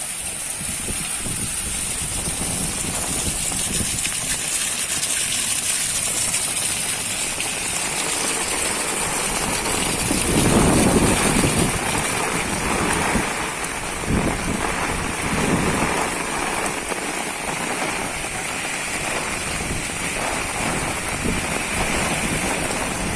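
Heavy rain falling in a steady hiss, swelling louder twice, about ten and fourteen seconds in.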